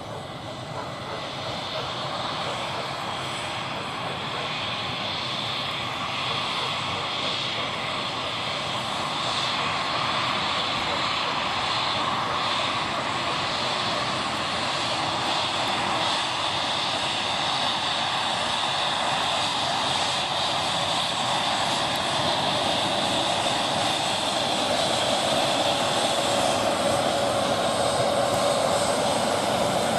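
Embraer E190's twin turbofan engines running, a steady jet whine and rush that slowly grows louder.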